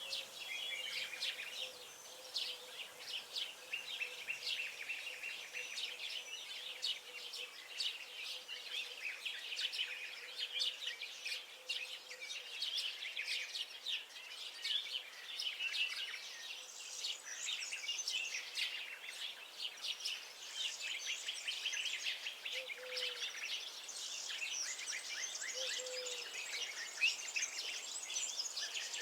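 A chorus of many small songbirds chirping and singing at once, dense and continuous, with a few short low notes near the end.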